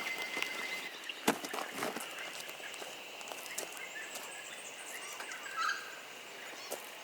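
Bush ambience: a steady high drone underlies a short bird call near the end. Two sharp knocks come a little over a second in, half a second apart.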